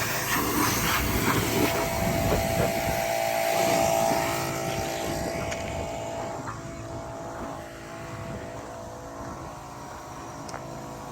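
Small engine of a lawn mower running steadily, growing quieter from about four seconds in.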